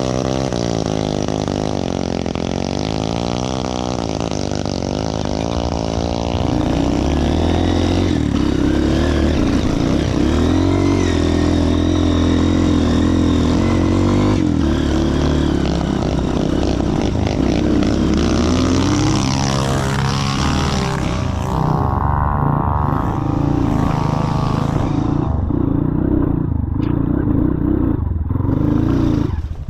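Motorcycle engine revving hard, its pitch rising and falling for the first few seconds. From about six seconds in it runs louder at high revs, with dips.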